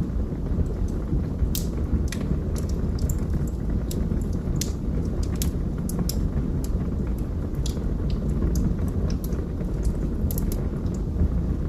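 Wood fire burning in a fireplace: scattered sharp crackles and pops, roughly one every second, over a steady low rush of the flames.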